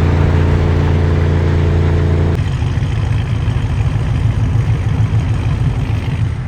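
A car engine drones at a steady speed. About two seconds in, the sound cuts abruptly to a rougher, uneven low vehicle rumble.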